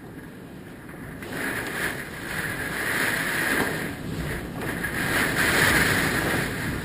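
Hurricane wind gusting hard and buffeting the microphone. It rises in surges, about a second in, again around three seconds, and loudest near the end.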